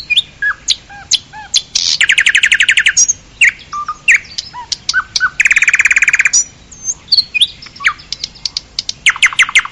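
Songbirds singing: a run of varied short chirps and whistles, some sliding up or down in pitch. Three fast, rattling trills about a second long come about two seconds in, in the middle and near the end.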